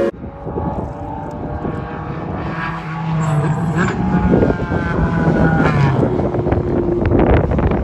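A car's engine running hard as it goes past on a race track, its pitch dropping toward the end as it passes.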